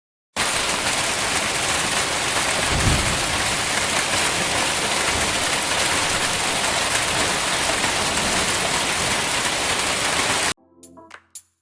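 Heavy rain pouring down in a storm as a steady hiss, with a brief low rumble of thunder about three seconds in. It cuts off suddenly near the end.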